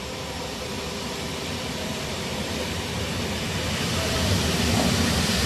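Koleje Dolnośląskie electric multiple unit pulling into a station: a steady rumble of wheels on rail and running noise that grows louder as the train draws near.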